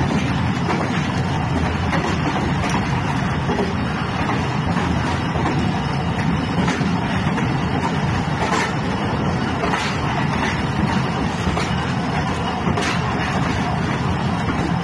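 Passenger train in motion: a steady rumble of wheels rolling on the rails, with a few faint sharp clicks from rail joints.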